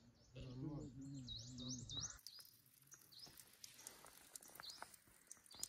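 Faint small-bird chirping: a quick run of short rising chirps in the first two seconds, over a low wavering hum. After that the chirps are sparse and scattered.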